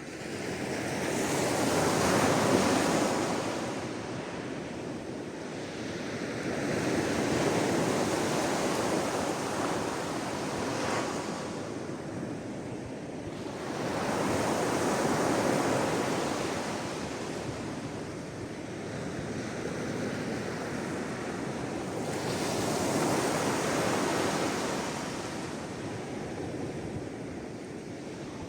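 Sea waves washing onto the shore, the wash swelling and falling away in slow surges, four in a row, several seconds apart.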